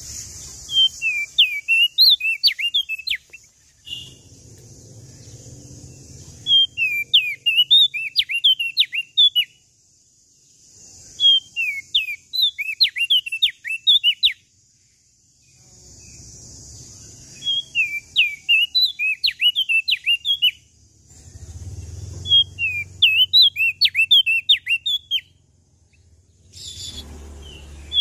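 Prenjak daun (opior jambul) singing its full song: phrases of quick, high chirping notes, each a couple of seconds long, repeated about six times with short pauses between. A steady hiss and a low rumble fill the gaps.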